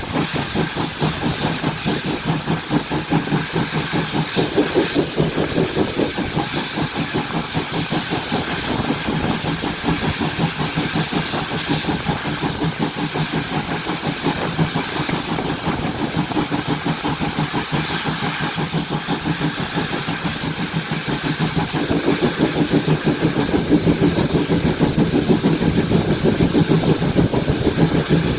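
GWR 57xx-class pannier tank steam locomotive 7714 working hard up a gradient: a fast, even chuffing of exhaust beats, getting louder about three quarters of the way through.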